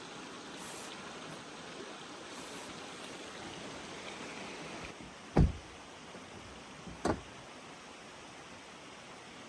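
River water rushing steadily, with two sharp thumps about five and seven seconds in, the first louder.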